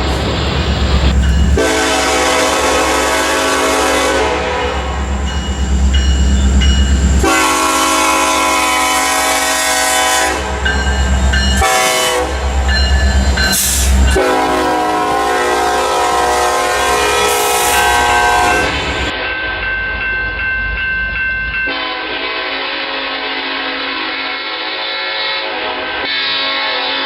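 Locomotive air horn sounding a series of long blasts with short breaks between them, over the low rumble of the moving train.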